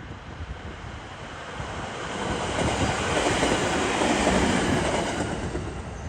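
Electric multiple-unit train passing at speed, the noise of its wheels on the rails growing to a peak about four seconds in and then fading away.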